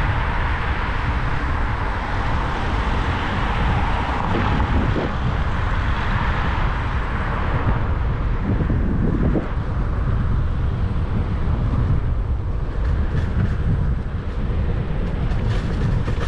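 Steady low wind rumble over a helmet-mounted camera's microphone while riding an electric scooter, with street and traffic noise that is louder for the first half and eases off after about eight seconds.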